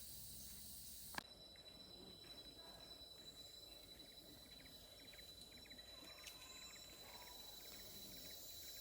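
Faint tropical rainforest insect chorus: a steady high-pitched insect trill over a hiss of more insects, with short rapid chirping calls through the middle and a single sharp click about a second in.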